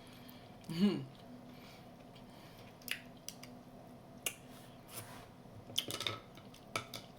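Eating Jonah crab claws: scattered sharp clicks and cracks of claw shell being handled and broken, with moist mouth sounds. A short voiced sound about a second in.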